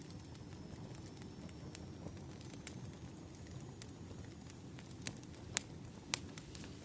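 Crackling wood fire: irregular sharp pops and snaps over a steady low rushing, with a few louder pops in the second half.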